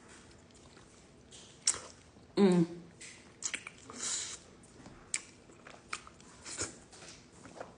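Close-miked chewing of chicken, with wet mouth clicks and smacks scattered through and a brief voiced sound about two and a half seconds in.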